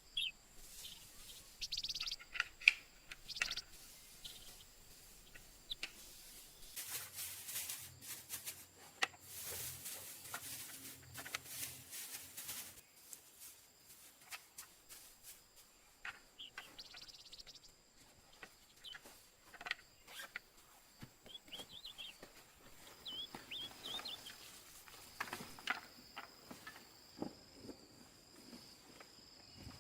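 Forest ambience: short bird chirps over a steady high-pitched insect drone, with many sharp clicks and stretches of rustling.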